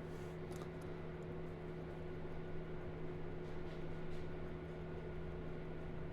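Steady low hum of a running ceiling fan with room noise, holding one pitch throughout.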